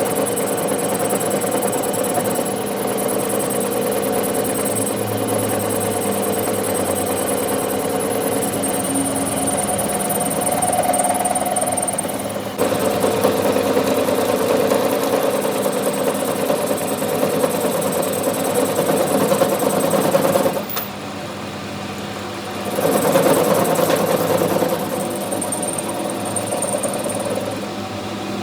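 Workshop machine running steadily with a constant hum. It changes slightly about halfway through, and drops in level for a couple of seconds before picking up again.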